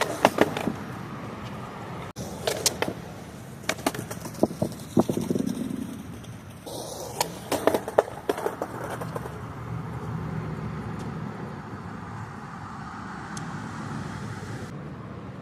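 Skateboard trick attempts on pavement: several bursts of sharp clacks and slaps as the board is popped, flips and comes down, in four groups over the first nine seconds. After that the wheels roll steadily over the ground.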